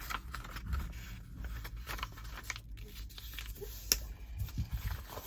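A sheet of paper being folded in half and creased by hand: irregular rustling and crinkling with light taps, and one sharp click about four seconds in.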